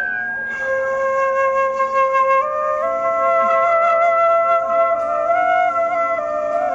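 Bamboo flute playing a slow melody of long held notes that step from one pitch to the next.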